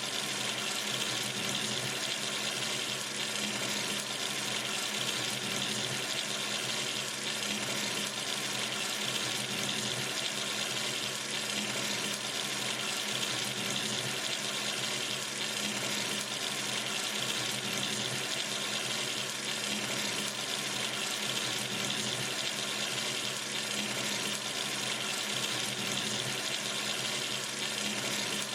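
Sink tap running steadily, water splashing into the basin in an even, unchanging rush.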